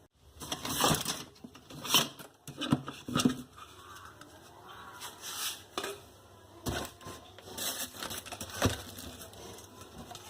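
Irregular knocks, taps and scraping of objects being handled, some ten sudden sounds of varying loudness, the loudest in the first few seconds.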